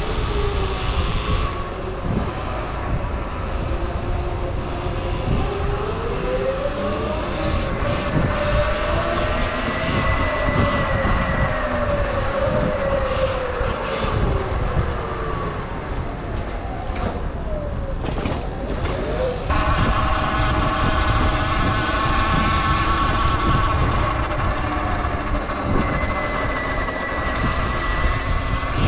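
Sur Ron electric dirt bike's motor whining, its pitch rising and falling as the bike speeds up and slows, then holding steady for the last several seconds. Heavy wind rumble on the microphone runs underneath.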